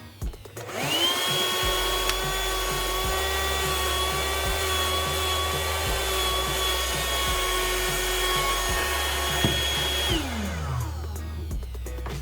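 Cordless vacuum cleaner's small electric motor switched on, whining up to speed, running steadily for about nine seconds, then switched off and winding down in a falling whine. Background music runs underneath.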